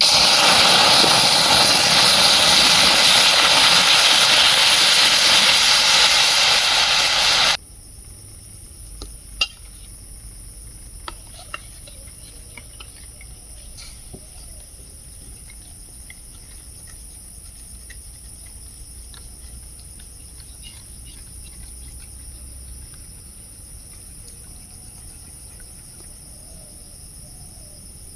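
A loud steady hiss for about seven seconds that cuts off abruptly. After it, a much quieter steady drone of forest insects, with a few scattered clicks and taps.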